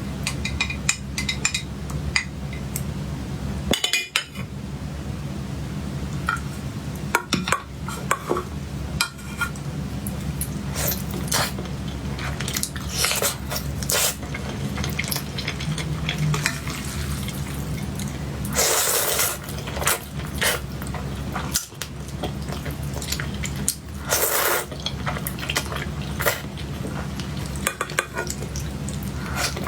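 Cutlery clinking and scraping on a plate or dish in many short, irregular clicks, with two longer scraping noises in the second half, over a steady low hum.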